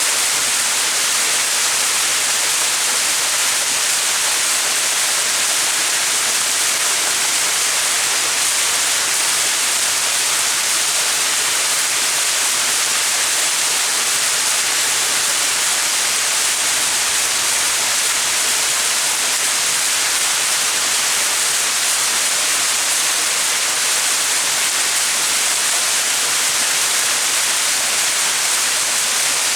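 Small mountain waterfall splashing steadily: an even, unbroken hiss of falling water, strongest in the high range.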